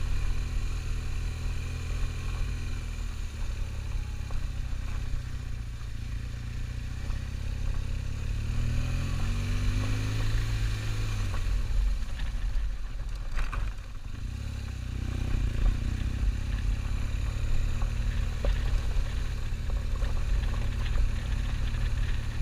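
Motorcycle engine running under way, its pitch rising steadily from about eight to eleven seconds in, then dropping back and holding steady.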